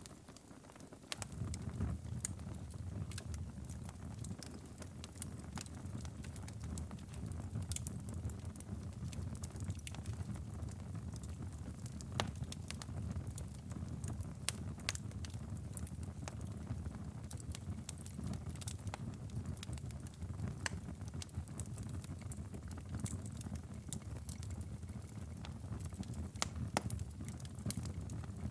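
Wood fire crackling, with frequent sharp pops and snaps over a steady low rumble. The rumble dips for about a second at the start.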